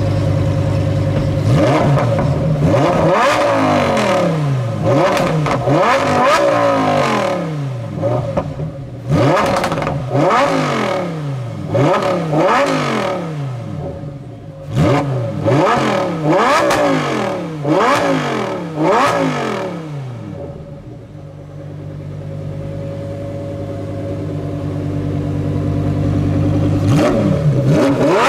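A supercar engine starts at idle and is then blipped again and again, about once a second. The pitch climbs and drops back with each rev. After some twenty seconds it settles back to a steady idle, and the revving starts again near the end.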